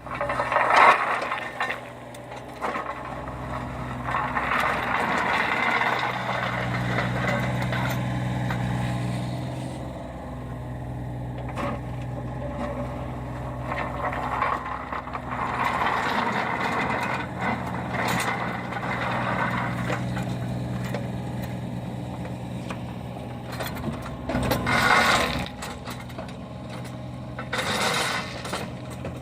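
Compact excavator's diesel engine running steadily, with louder swells as it works under load and scattered metal clanks and rattles.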